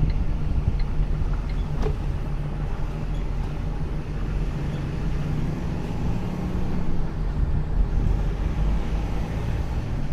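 Truck engine running steadily while driving, a low even drone with road noise over it.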